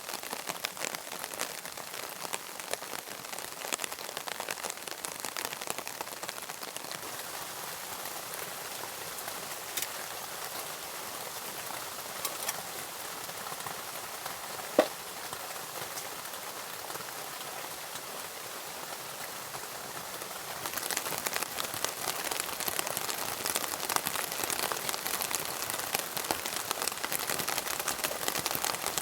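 Rain pattering steadily on a surface, a dense hiss of fine drop ticks. It grows heavier about two-thirds of the way through. A single sharp click comes near the middle.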